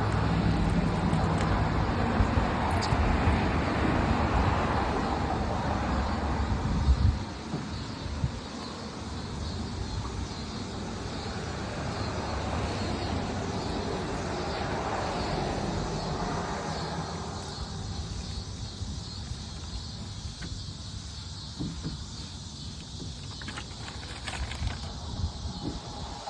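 A motor vehicle's engine running with a steady low hum, which stops with a sharp knock about seven seconds in. After that there is a quieter, even background noise.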